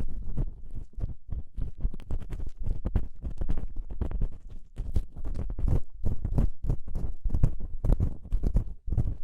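An ear-cleaning tool scraping and rubbing close to the microphone, in a dense run of irregular scratches and crackles.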